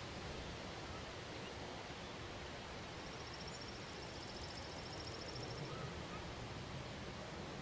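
Wind blowing steadily through a sunflower field, an even rustling hiss. A faint, high, rapid trill sounds from about three seconds in until near six seconds.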